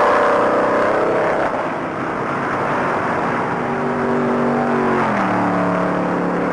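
Field of 1960 stock cars racing at full speed, engines running loud, with the pitch dropping about five seconds in as cars pass.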